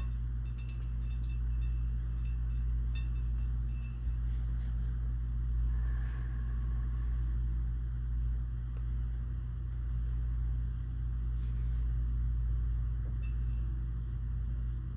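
A steady low hum throughout, with a few faint light metallic clicks in the first three seconds and once more later, from a small screwdriver working a tiny set screw into the ejector of a side-by-side shotgun.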